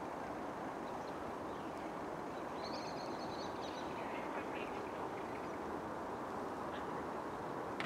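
A bird calls faintly a few times, high-pitched, a little under halfway through, over a steady outdoor background hiss. There is a single short click near the end.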